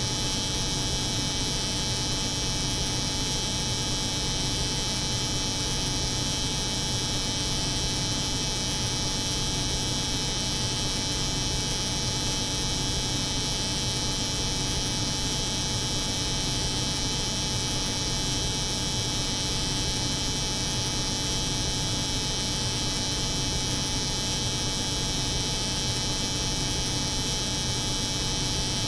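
Steady, unchanging layered drone of an electric hair clipper running over the hum of a cold room's refrigeration, with a low hum, a thin steady tone and a bright hiss high up.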